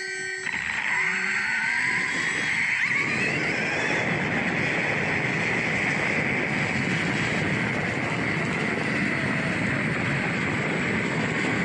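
The electric motor of a 1/4-scale Losi Promoto-MX RC motorcycle whines up in pitch as the bike accelerates in the first few seconds. A steady, loud rush of wind and motor noise follows, heard from a camera mounted on the bike.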